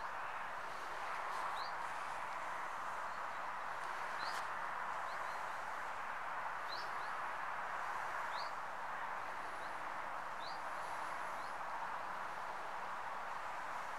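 A small bird giving short, high, rising chirps every second or two over a steady hiss.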